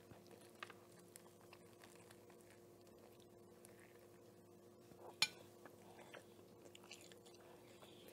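Faint close chewing and biting into a fried chicken sandwich, with one sharp click about five seconds in, over a faint steady hum.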